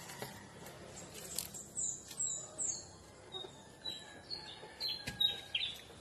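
Small birds chirping: a quick series of short, high chirps, the later ones lower in pitch, with a couple of faint clicks.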